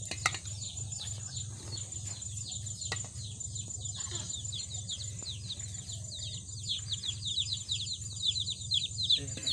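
Small birds chirping: a rapid run of short falling chirps that grows busier toward the end, over a steady high insect-like buzz.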